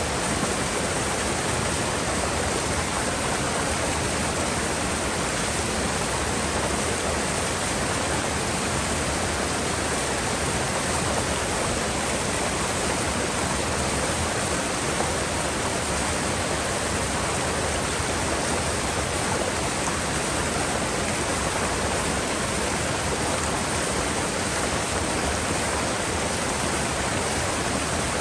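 Gorge river water rushing steadily, an even, unchanging wash of sound.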